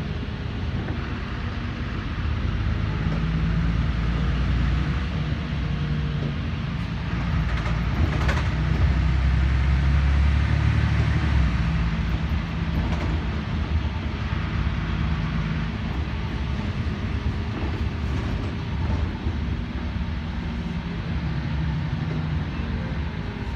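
Inside a LiAZ 5292.21 city bus under way: its diesel engine and drivetrain running, with road rumble. The sound builds about eight seconds in and eases off after about twelve, with a brief knock as it starts to build.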